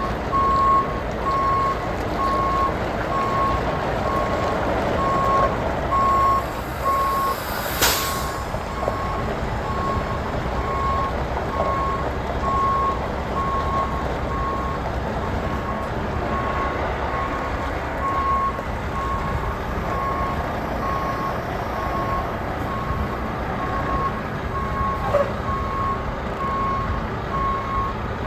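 Semi truck's reversing alarm beeping at an even pace over the steady running of its diesel engine while backing. There is a short hiss of air about eight seconds in.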